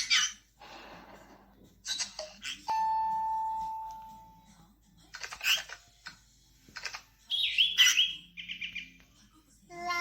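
Bird chirps and calls in short separate notes, with one long steady whistled note about three seconds in and a quick run of repeated chirps near the end.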